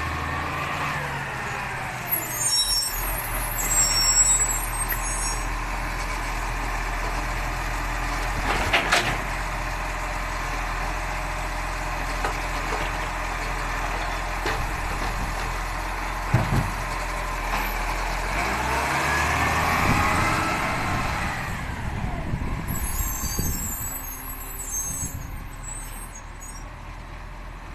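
Garbage truck running, its engine pitch falling and rising as it revs. A short sharp hiss comes about nine seconds in, a heavy thump at around sixteen seconds, and there are high squeaks near the start and again near the end.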